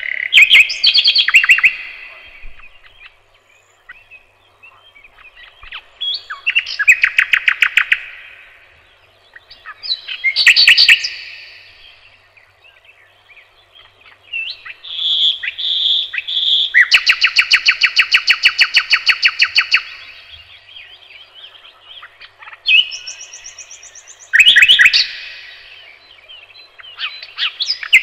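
A songbird singing loud, close phrases of rapid trills and repeated notes, a new phrase every few seconds. Just past the middle comes one long trill lasting about three seconds.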